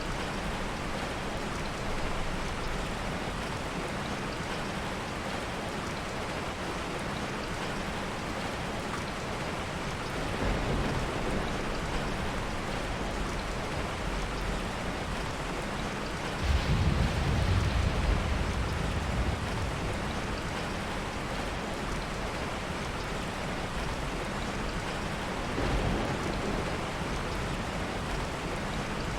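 Steady heavy rain with soft rolls of thunder: a low rumble about a third of the way in, a stronger one lasting about three seconds just past halfway, and a smaller one near the end.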